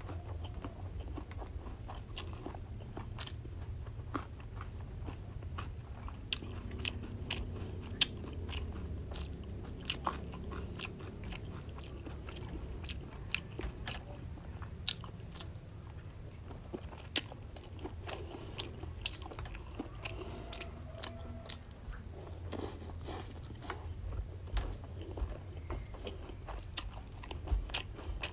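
Close-miked chewing of fried rice noodles with crunchy raw vegetables such as bean sprouts and cucumber: a steady low mouth noise broken by many sharp, irregular crunches and clicks.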